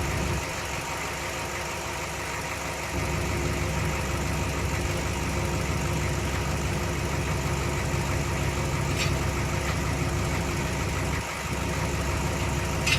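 Vehicle engine idling steadily, a little louder from about three seconds in, with a short dip shortly before the end.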